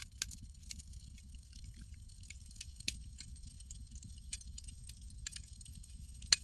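Campfire crackling: irregular sharp pops and snaps over a low, steady rumble, with one louder pop near the end.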